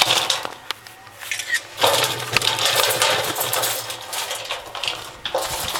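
Bird seed rattling and rustling in a garbage can as it is disturbed: a stream of small clicks, sparse at first and dense from about two seconds in.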